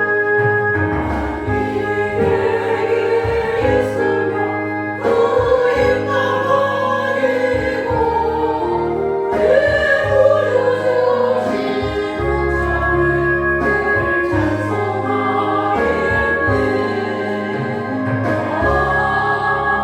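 A group of voices singing a hymn in worship, with keyboard accompaniment holding steady chords underneath.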